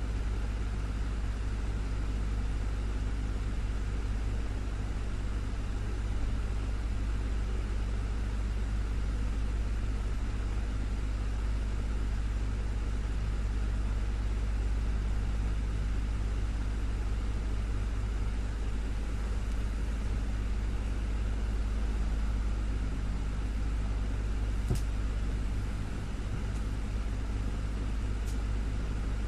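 Desktop fan running steadily: an even whoosh of moving air over a low motor hum. A couple of faint brief ticks near the end.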